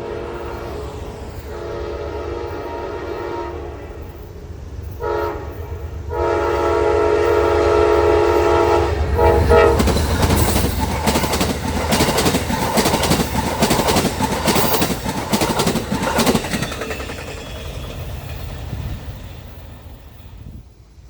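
Locomotive air horn blowing a long blast, a short blast, then a long blast: the closing long-short-long of a grade-crossing signal. The train then passes, with rapid clicking of wheels over rail joints over a low rumble that dies away near the end.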